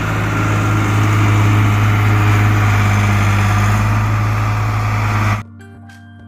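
Heavy engine of a snow-clearing vehicle running steadily with a deep, even drone. It cuts off abruptly near the end and quiet music takes over.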